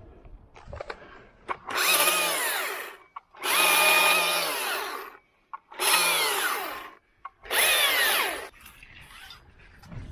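A small electric motor-driven power tool run in four short bursts, each one to two seconds long, its pitch dropping through each burst.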